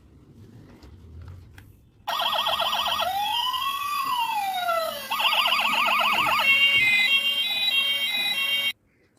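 Battery-operated toy police car's electronic siren, starting about two seconds in and cycling through a fast warble, a slow wail that rises and falls, the fast warble again, then a two-note hi-lo pattern, before cutting off suddenly near the end. A few faint handling clicks come before it.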